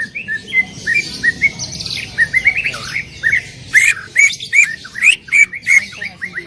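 Cucak ijo (green leafbird) singing loudly in a fast run of short, sharp whistled notes, about three to four a second, in the rapid 'tembakan' style.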